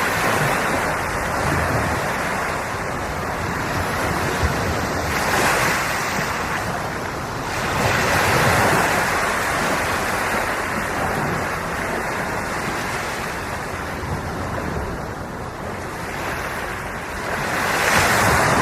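Sea waves breaking and washing on the shore, swelling louder every few seconds, with wind buffeting the microphone.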